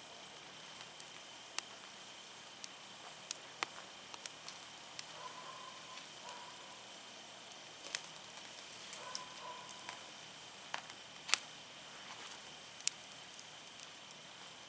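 Firewood burning in an outdoor fire, crackling with irregular sharp pops over a faint steady hiss; the loudest pops come a little past eleven seconds and again near thirteen.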